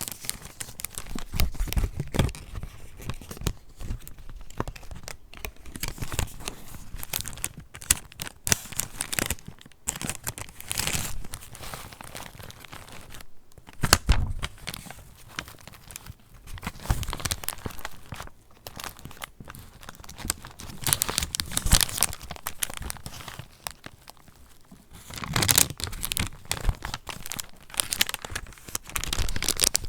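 Paper rustling and crinkling as the pages of a handmade junk journal are turned and handled, with irregular crackles and soft taps, louder in a few strokes near the middle and towards the end.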